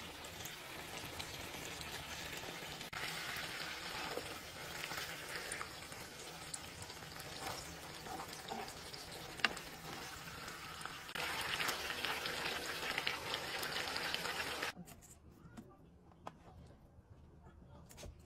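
Burger patties, onion slices and crinkle-cut fries sizzling in a pan of oil, with scattered clicks and one sharp click about nine seconds in. The sizzle grows louder about eleven seconds in, then cuts off suddenly about fifteen seconds in, leaving only a few faint clicks.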